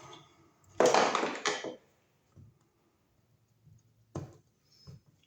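Handling noise from an old wall receptacle and its wires being worked by hand: a loud scraping rustle lasting about a second, then a single sharp click a little after four seconds in.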